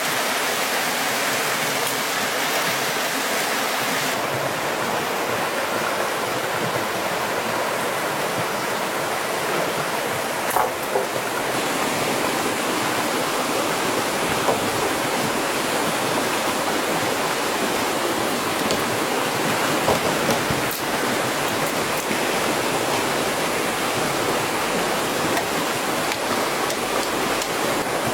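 Steady rushing of water, with a few light knocks about ten, fourteen and twenty seconds in.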